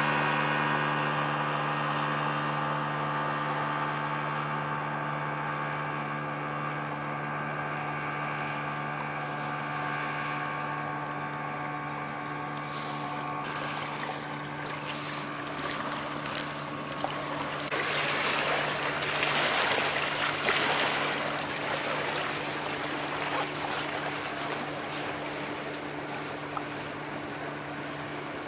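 Ship's diesel engines running with a steady low hum, at first with a higher whine over it that fades away. From about halfway a rushing noise with crackles builds up, loudest about two thirds of the way in, then eases off.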